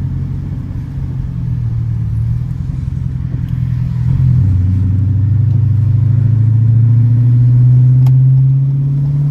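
Dodge Challenger R/T's 5.7-litre HEMI V8 pulling under acceleration. About four seconds in the pitch drops with an upshift, then the engine note climbs and grows louder before easing off near the end.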